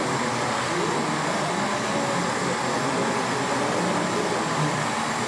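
Steady background din of a busy exhibition hall: an even wash of noise with faint, indistinct voices mixed in.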